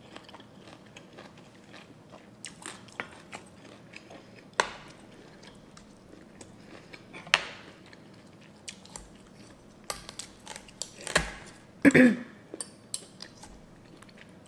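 Close-miked chewing of a mouthful of seafood papaya salad, soft and wet, with scattered sharp clicks and scrapes of a metal spoon and fork against the dish as more salad is scooped.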